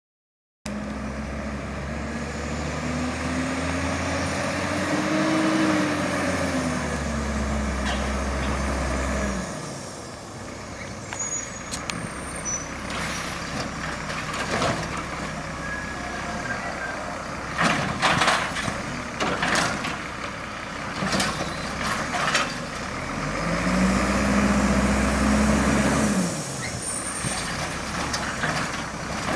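Automated side-load garbage truck: the engine revs up and back down, then a stretch of sharp knocks and clatter, then a second rev up and down near the end.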